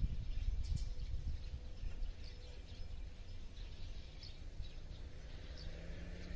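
Wild birds chirping in short, scattered calls over a steady low rumble of outdoor background noise.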